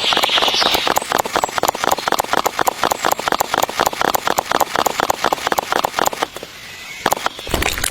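A small motor running with a rapid, even ticking, about seven beats a second, which drops away about six seconds in; a thump near the end.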